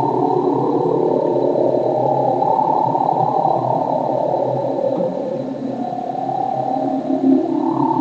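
Korg DW-8000 synthesizer playing a noise patch: a dense, buzzing wash of noise with brighter bands slowly sweeping up and down in pitch, which the owner believes is made by modulating noise from the oscillators.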